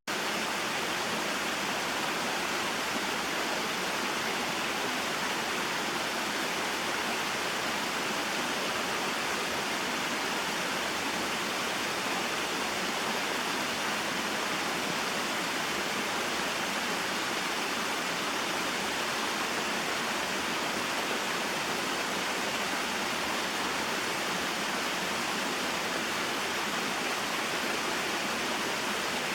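Small mountain waterfall and stream: water falling and flowing over rocks in a steady, unbroken rush.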